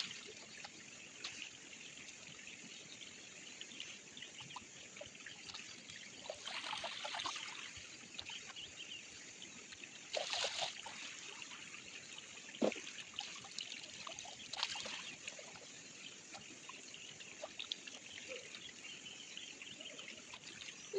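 Shallow stream water trickling steadily, with a few brief louder splashes as the water is disturbed, about a third of the way in, near the middle and a little later.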